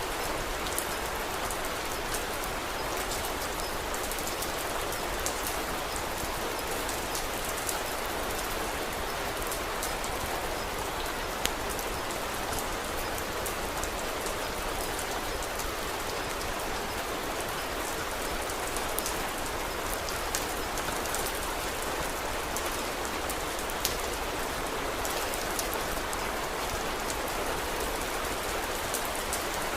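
Steady rain falling, an even hiss, with scattered sharp clicks throughout.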